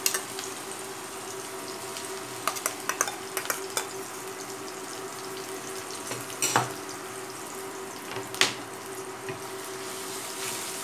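Onion, ginger and garlic pastes sizzling steadily in hot oil in a non-stick frying pan, under a faint steady hum. A few light clicks and two sharp knocks, about six and eight and a half seconds in, break through the sizzle.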